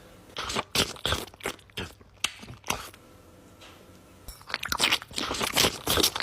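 Irregular crackling and crunching, in scattered bursts, then a denser run from about four seconds in.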